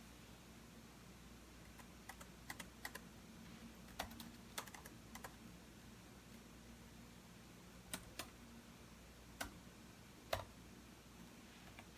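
Computer keyboard typing in scattered, irregular keystrokes: a quick run of clicks from about two seconds in, then single keys a second or more apart, over a faint low hum.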